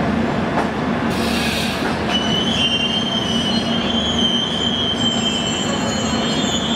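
Indian Railways passenger train running through the station with a steady rumble. A short hiss comes about a second in, and from about two seconds in the wheels squeal in high, steady tones.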